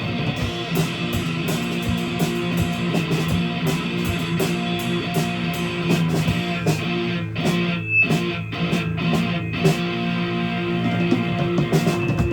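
Live rock band playing loudly between sung lines: electric guitar chords over drums, with regular sharp drum and cymbal strikes that thin out in the second half.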